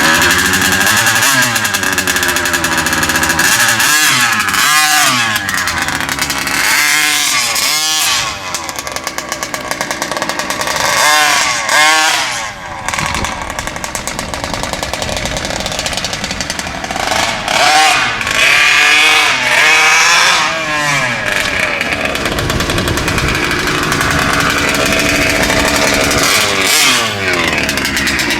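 Taylor 50 GT two-stroke gas engine in a large-scale RC monster truck running and being revved up and down again and again, its pitch climbing and dropping with each throttle blip.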